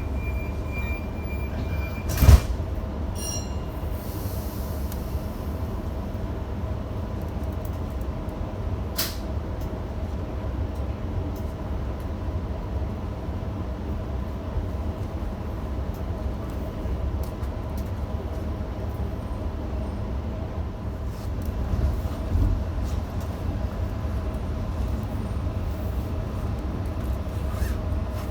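Electric passenger train heard from inside the carriage: a steady low rumble with a faint humming tone. A sharp knock comes about two seconds in and a lighter click around nine seconds.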